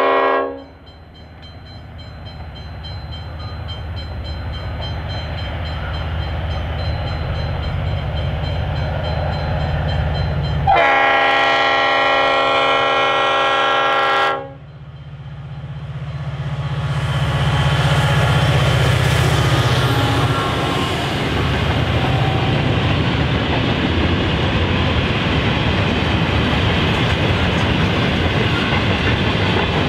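Clyde-built C class and T class diesel-electric locomotives hauling a ballast train of hopper wagons. A horn blast ends about half a second in, and the engines grow louder as they approach. A second horn blast of about three and a half seconds sounds near the middle, then the locomotives pass and the hopper wagons clatter by over the rail joints.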